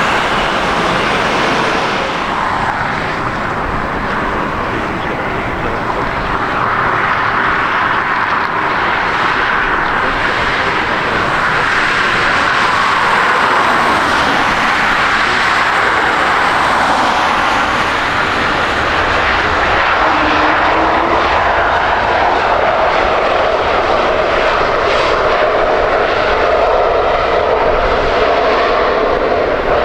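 Jet airliner engines, a loud steady rush that slowly drifts lower in pitch in the second half.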